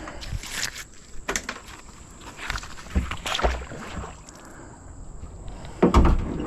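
Irregular clicks and knocks of small iron finds and the magnet being handled inside a kayak, with the loudest knock about six seconds in.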